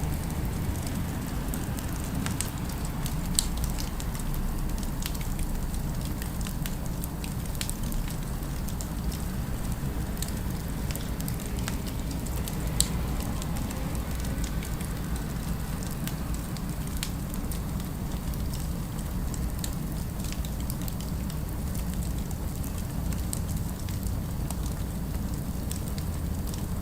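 Fireplace fire crackling steadily over a low rumble, with scattered sharp pops; two louder pops stand out, one a few seconds in and one near the middle.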